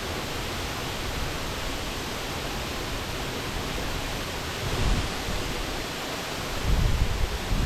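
Waterfall, a steady rush of falling water, with gusts of wind buffeting the microphone about five seconds in and again near the end.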